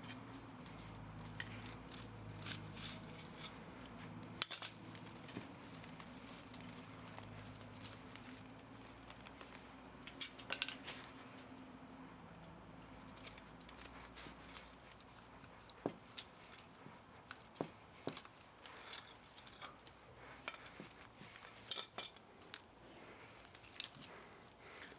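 Hand tools clicking and clinking against metal parts of an electric pump motor as it is dismantled for scrap copper and aluminium, in scattered sharp irregular taps and snips.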